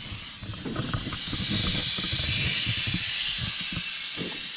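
Air-ride suspension airbags on a bagged Chevy C10 pickup venting, a steady hiss that swells and then eases off as the truck is aired out and lowered.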